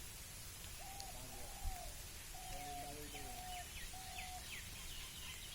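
Birds calling: a series of short, level hooting notes, joined about halfway through by rapid high chirps from a second bird.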